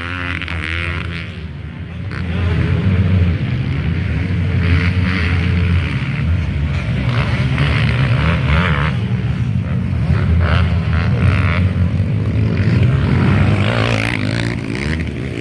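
Motocross dirt bike engines running and revving on the track, a steady drone that dips briefly and comes back louder about two seconds in.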